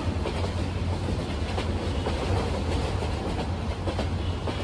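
Express passenger train running at speed, heard from on board: a steady low rumble of the coach with faint clacking of the wheels over the rails.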